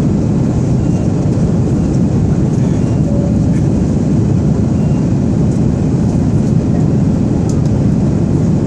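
Jet airliner cabin noise heard from a passenger seat: a steady, loud low rumble of engines and airflow.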